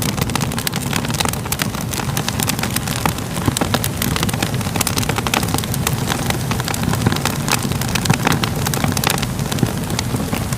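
Wood fire crackling steadily: a constant low rumble of flames with frequent small, irregular pops and snaps throughout.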